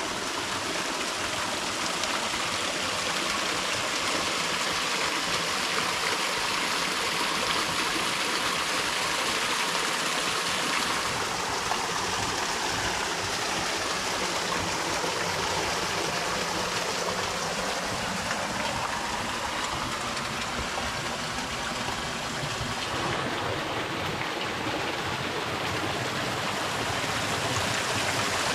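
Small creek waterfall splashing and rushing steadily.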